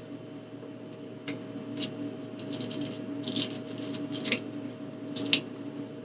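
Scattered clicks, taps and rustles of food containers and packaging being handled, over a steady low hum.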